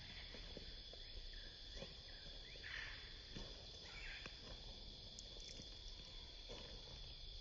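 Faint park ambience: a steady, high insect drone with a few short bird chirps about three and four seconds in.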